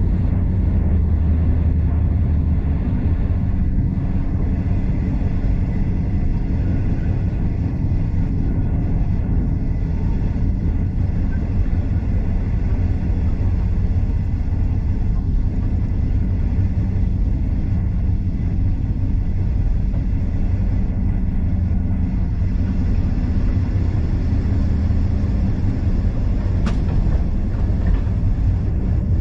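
Steady low rumble of a steam-hauled heritage passenger carriage running along the track, heard from on board, with one brief sharp click near the end.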